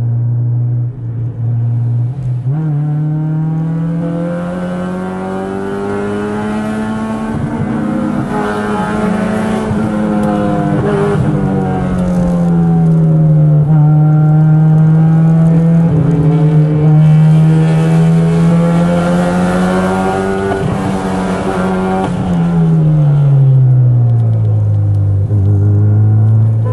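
Car engine heard from inside the cabin, pulling uphill. The revs climb about two seconds in and stay high, rising and falling through the bends, then drop back to a lower note near the end.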